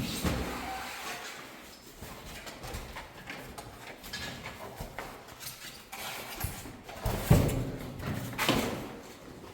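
A run of irregular knocks and clatters of hard objects, with a couple of louder thuds near the end.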